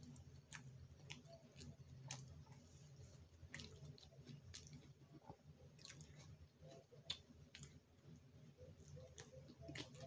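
Faint chewing of a mouthful of hamburger: soft, irregular wet mouth clicks and smacks.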